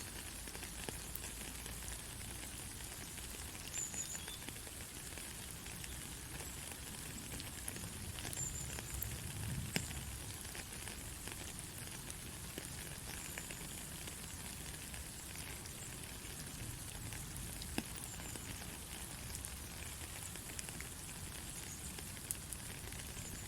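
Steady rain falling, an even hiss with many individual drops ticking, and a few sharper drop hits along the way.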